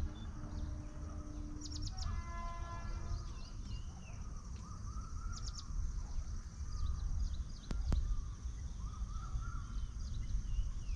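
Birds chirping and calling over a steady low outdoor rumble, with two quick high trills. About two seconds in, a brief held tone sounds, and near the eight-second mark there is one sharp click.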